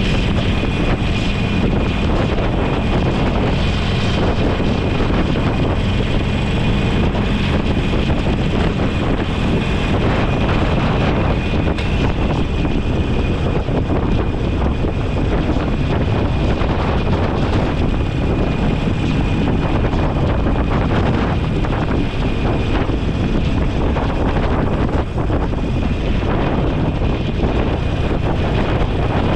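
Motorcycle on the move: steady wind rush buffeting the microphone, with the engine running underneath.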